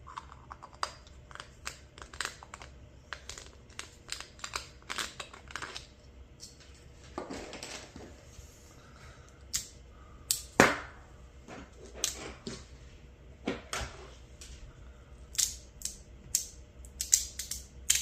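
Magnetic fidget sliders being slid and handled: irregular sharp clicks and taps as the plates snap into place, with a short scraping rustle about seven seconds in.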